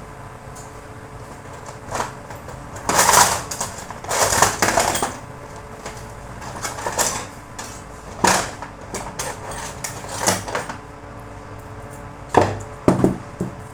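Parts of a dismantled angle grinder being handled on a bench: several short knocks and clatters with a few longer scraping sounds between them, over a faint steady hum.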